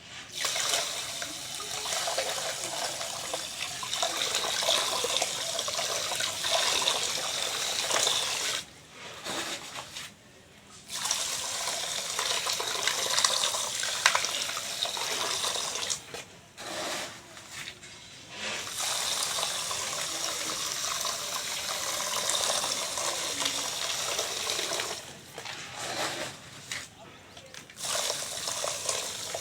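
Dry sand and cement powder poured into water, a steady hissing trickle and splash, in several pours broken by three short pauses.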